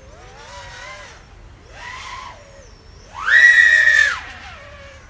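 Brushless motors of an Eachine/Diatone ER349 3-inch FPV quadcopter whining in flight, the pitch gliding up and down with throttle in a few swells. The loudest is a high whine about three seconds in that holds for nearly a second and then falls away.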